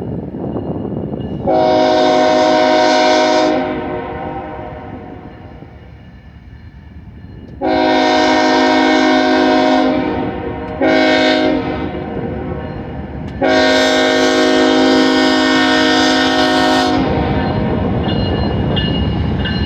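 K5HL five-chime air horn on a GE ES44DC locomotive sounding the grade-crossing signal: long, long, short, long, the last blast held longest. The rumble of the approaching locomotive and train grows loud near the end.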